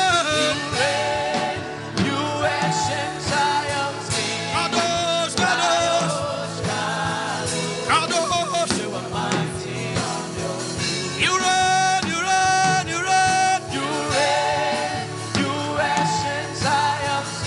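Gospel worship music: singing over a full band accompaniment with a steady beat.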